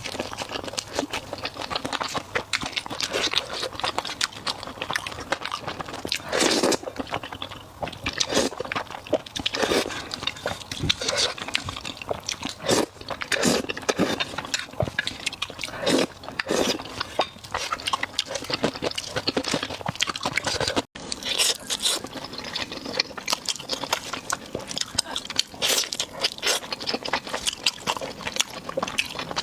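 Close-miked eating: a person biting, crunching and chewing food in a steady run of crackly, wet mouth sounds, with a momentary break about 21 seconds in.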